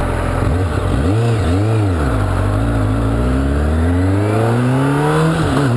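Kawasaki Ninja sport bike engine revving up and down twice, then accelerating steadily in one gear, its pitch dropping sharply near the end as it shifts up and climbs again, over wind noise.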